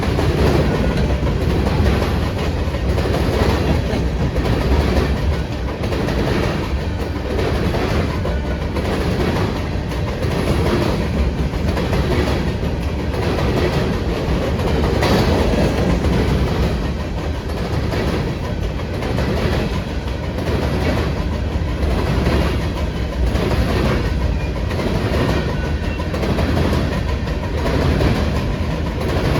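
A train rolling past, its wheels clicking over the rail joints in a steady, even rhythm under a continuous rumble.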